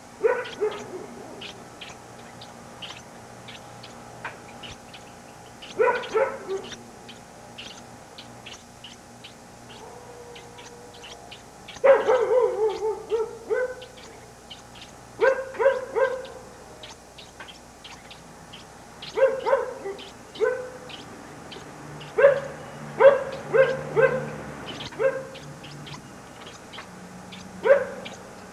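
Short animal calls, barking in character, coming in clusters of two to four every few seconds, over faint, fast high ticking.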